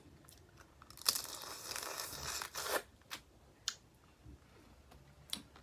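Boiled crawfish shell being cracked and peeled apart by hand: a crackly tearing noise lasting about two seconds, followed by a few sharp clicks of shell.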